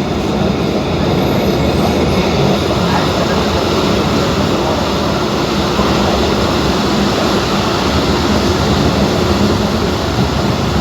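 Passenger train moving along the track, heard from inside the carriage: steady, loud running noise of the wheels and car body.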